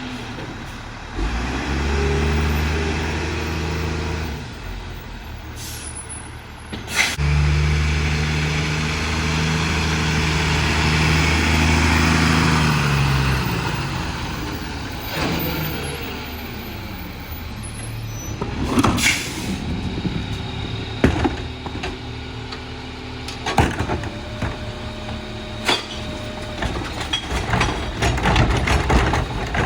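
Freightliner garbage truck's diesel engine revving up twice, briefly about a second in and again for about six seconds from around seven seconds, as the Heil Formula 4000 rear loader's hydraulic packer runs. A sharp air-brake hiss comes about two-thirds through, followed by a series of knocks and clanks.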